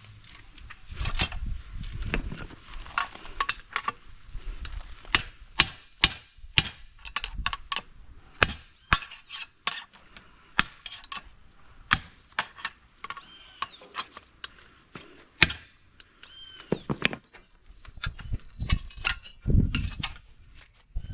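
Hand tools and metal parts knocking and clinking in irregular sharp strikes while working on a motorcycle's rear swingarm and its bushing.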